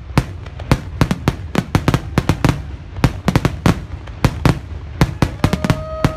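Fireworks finale: aerial shells launching and bursting in rapid succession, several sharp bangs a second. A steady high tone joins in near the end.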